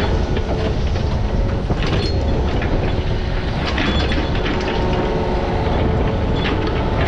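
Diesel engine of a piece of digging equipment running steadily under load, with metallic clanking and rattling over it.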